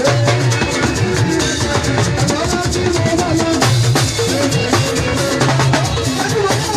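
Live gospel band music with a drum kit keeping a steady beat over bass and keyboard lines, shakers in the mix.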